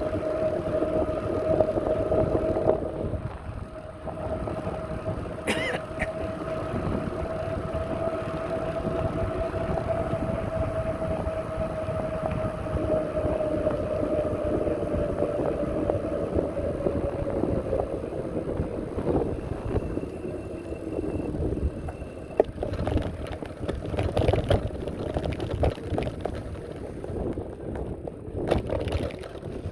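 Riding noise from a moving bicycle: a low, noisy rumble under a steady whine that dips slightly in pitch past the middle, with a sharp click about five seconds in and several more near the end.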